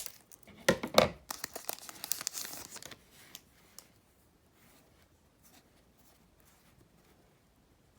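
A foil trading-card pack is ripped open and its wrapper crinkled in a quick run of tearing and crackling over the first three seconds. After that there are only faint rustles as the cards are handled.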